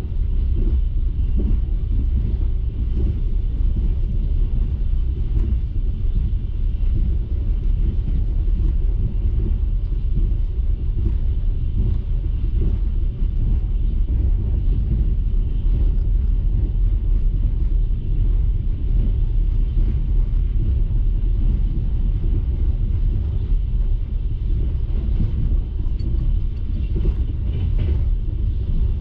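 Steady low rumble of a passenger train carriage running along the track, heard from inside the compartment, with no regular beat.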